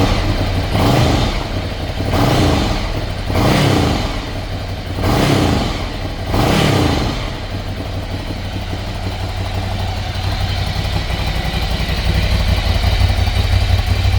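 Ducati Scrambler 800's air-cooled L-twin engine blipped five times, each rev rising and dropping straight back, then settling to a steady idle for the second half.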